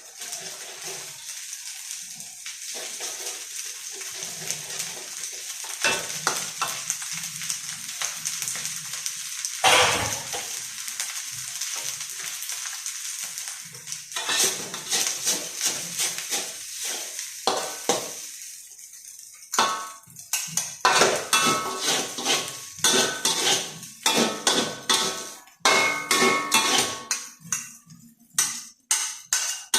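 Food sizzling in a hot pan, with a spatula scraping and clanking against the pan as it is stirred; the scraping gets busier and louder about two-thirds of the way in.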